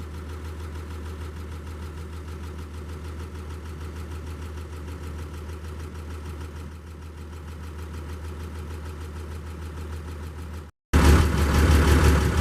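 A vehicle engine running steadily with a low, even hum. About eleven seconds in, the sound cuts abruptly to a louder stretch of the same engine hum.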